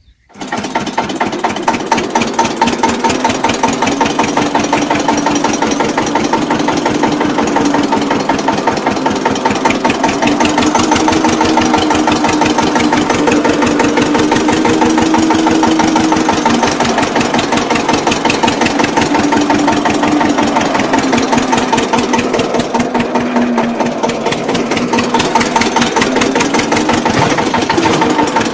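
Mini tractor's small engine running steadily with a fast, even chug, its speed wavering slightly up and down a few times.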